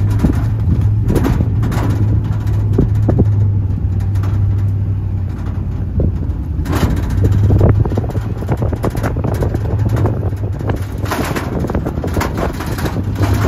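Open-air 4x4 tour truck driving off-road: a steady low engine drone with frequent knocks and rattles from the rough track, and wind rushing over the microphone in surges about seven seconds in and again near the end.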